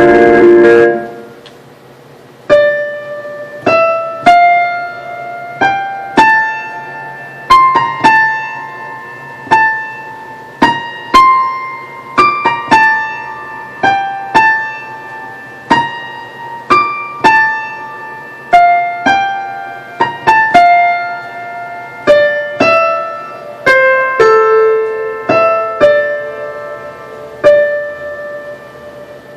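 A slow melody played on a keyboard in a piano sound, mostly one note at a time, each note struck and left to ring and fade. A louder held sound stops about a second in, before the melody begins.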